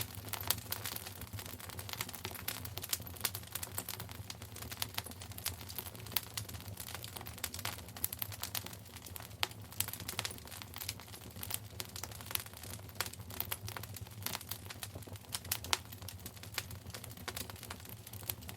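Wood fire crackling in a fireplace: irregular sharp pops and snaps, many close together, over a steady low hum.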